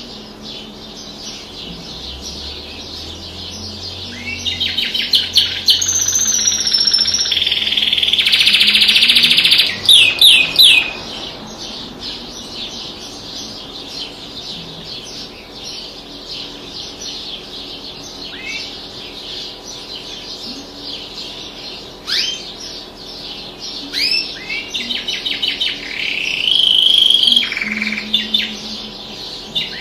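Small songbirds singing: long buzzy trills, fast repeated chirps and sharp single down-slurred notes, loudest in the first third and again near the end.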